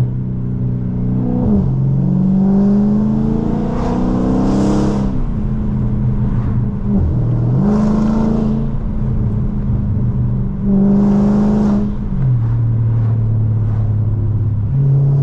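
Dodge Charger Scat Pack's 392 HEMI V8 running through catless midpipes and a straight race exhaust, pulling hard several times: the engine note climbs, then drops back sharply about five seconds in, again near the middle, and once more near the end as it settles to a lower drone.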